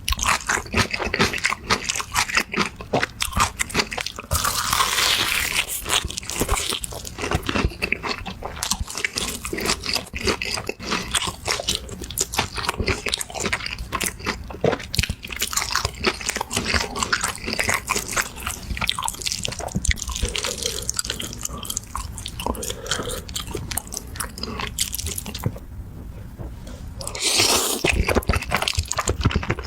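Close-miked eating: crunchy bites and chewing, a dense run of quick crunches throughout, with a short louder noisy stretch about five seconds in and again near the end.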